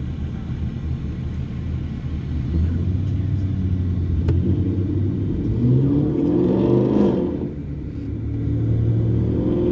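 Car engine and road noise heard from inside the car. The engine runs steadily, then revs up about halfway through, eases off briefly and picks up again near the end, as the car accelerates.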